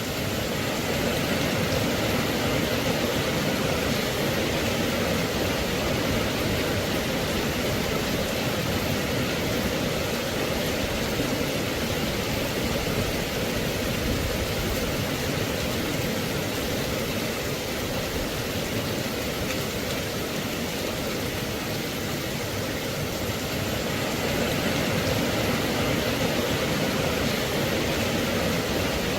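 Steady rain, an even hiss with no single drops, thunder or other events standing out.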